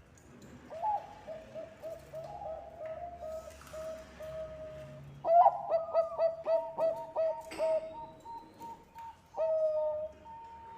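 Zebra dove (perkutut bangkok) cooing: strings of short, quick staccato coos, with the densest and loudest run in the middle and one longer coo near the end.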